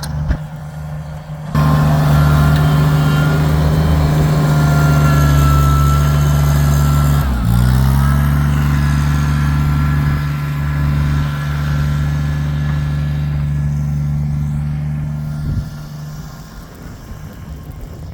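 Kubota tractor's diesel engine running steadily, jumping louder about a second and a half in. About seven seconds in, its pitch dips briefly and comes back up, and it eases off near the end.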